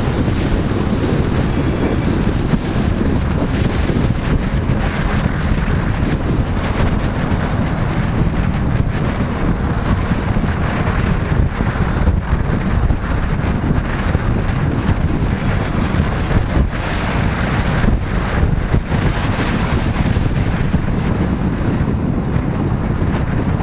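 Steady wind noise buffeting the microphone of a motorcycle being ridden, a continuous rush of air with the bike's running noise beneath it.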